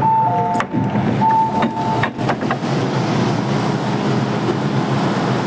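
MTR M-Train running, a steady rumble heard inside the car. In the first two seconds a short electronic chime sounds twice, and a few clicks come from the train.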